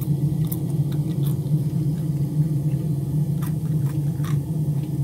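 A crisp, twice-cooked French fry crunching in a few sharp bites as it is chewed close to the microphone, over a steady low hum.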